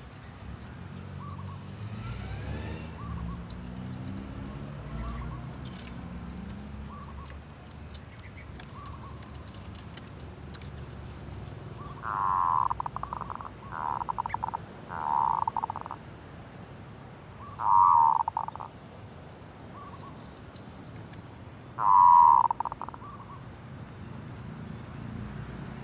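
Zebra dove cooing: a few loud staccato, trilling coo phrases about halfway through and near the end, with soft single notes earlier.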